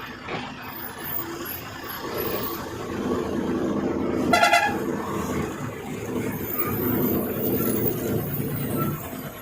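Heavy truck engine running, growing louder about two seconds in, with one short horn toot about halfway through.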